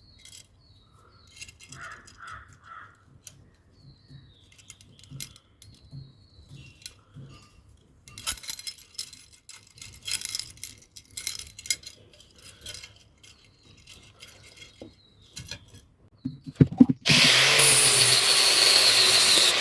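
Metal clinks, scrapes and small knocks as tools and metal pieces are handled at a blacksmith's bench. Near the end a power tool starts abruptly and runs with a steady loud noise.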